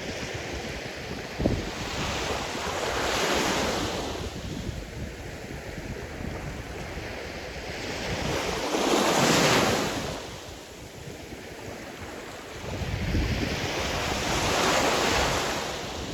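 Sea surf: three waves break and wash up the shore, one every five to six seconds, each rising to a rushing hiss and then fading back.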